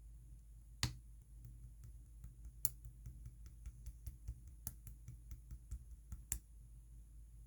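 Clear slime being pressed and stretched by hand, giving sharp little clicks and pops: one loud pop about a second in, then a quick run of small clicks with a few louder pops.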